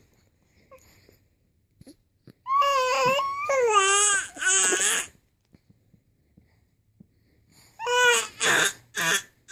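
A 4½-month-old baby vocalizing in loud, high-pitched, cry-like squeals: a run of three drawn-out cries starting about two and a half seconds in, then three shorter ones near the end.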